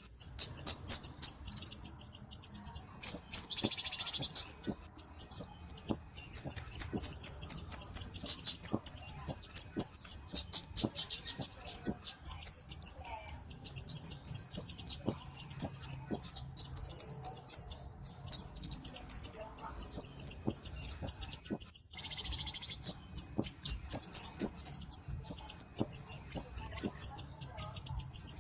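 Flowerpecker (kemade, 'cabe-cabean') singing: long runs of rapid, high-pitched chips, about eight a second. The runs are broken by short pauses, with a brief hissy burst near the start and again about three-quarters of the way through.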